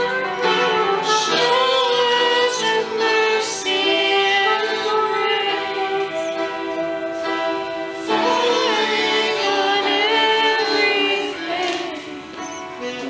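Worship music: singing led by a woman's voice, with other voices joining, holding long notes with vibrato over sustained chords.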